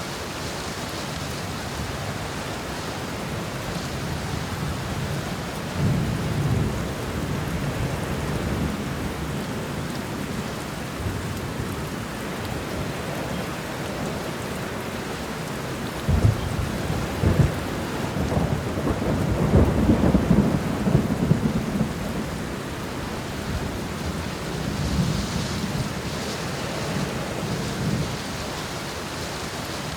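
Steady rain with rolls of thunder. The loudest thunder comes about sixteen seconds in and lasts several seconds, with softer rumbles earlier and near the end.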